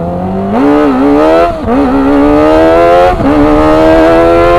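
Kawasaki ZX-25R's 249 cc inline-four engine accelerating hard. Its pitch climbs steadily through each gear, broken by quick upshifts about one and a half and three seconds in.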